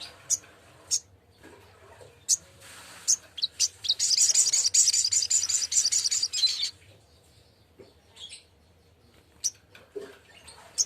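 Sogok ontong, a sunbird, calling: single sharp, high chips scattered throughout, and about four seconds in a fast rattling trill lasting around two and a half seconds, the loudest part.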